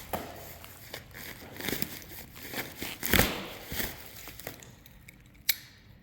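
Packaging wrap on a truck lift crinkling and tearing in irregular bursts, with one sharp click near the end.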